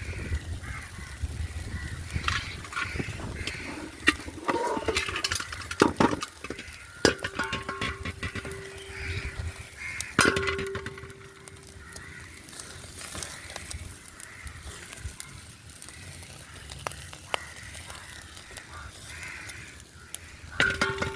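Scattered clinks and knocks of cookware and dishes being handled, densest in the first half. Twice in the middle, and again at the very end, comes a long held steady call or tone.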